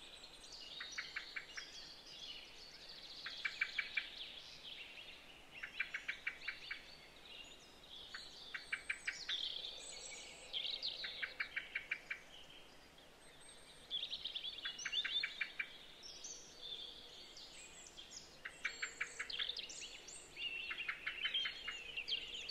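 Birdsong: a short, fast trill of about eight notes repeating every two to three seconds, with higher chirps and tweets in between.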